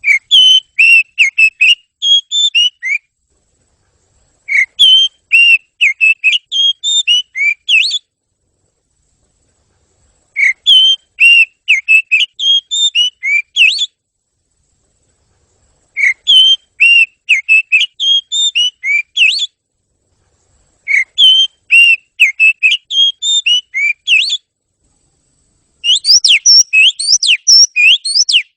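Oriental magpie-robin (kacer) singing: six phrases of quick, clear whistled notes, each about three seconds long, with short silences between them. The last phrase, near the end, is faster, with steep up-and-down sweeps.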